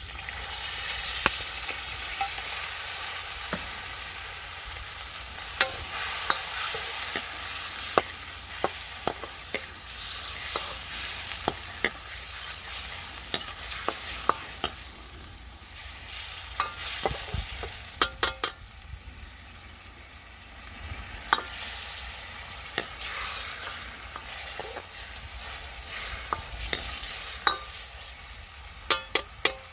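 Food sizzling in a hot wok while a spatula is stirred through it, giving sharp clanks and scrapes against the pan. The sizzle eases off about halfway through, then builds again.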